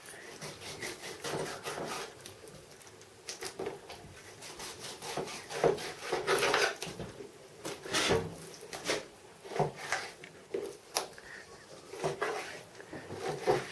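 Fillet knife slicing and scraping through a pike as it is deboned, in irregular strokes, with a few louder scrapes and knocks around the middle.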